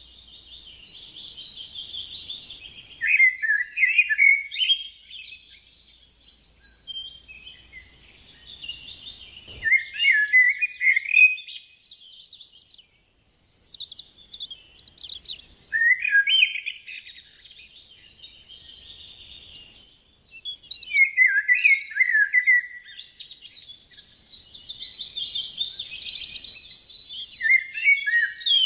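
A pet bird chattering and warbling in long, scratchy phrases with short pauses between them. Each phrase ends in a run of lower, falling chirps.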